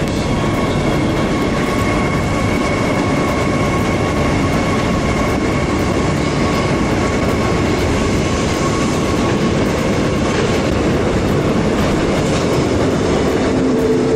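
Electric commuter train running: a steady loud rumble with a faint high whine held throughout.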